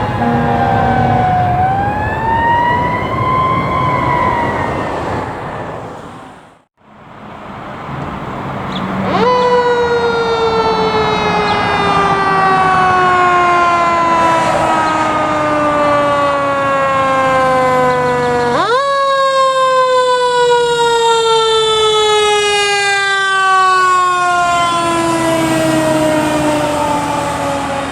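Fire truck sirens wailing. A rising and falling wail fades out, then a siren twice jumps sharply up in pitch and falls slowly over many seconds, with a low vehicle rumble underneath.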